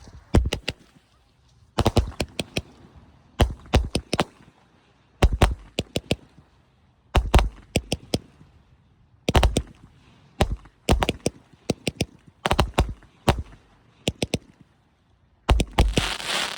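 Kaboom Fireworks Symphony of Colours 36-shot cake firing: volleys of sharp bangs in quick clusters, one cluster every one to two seconds. Near the end a dense crackling sets in, from the cake's crackling effects.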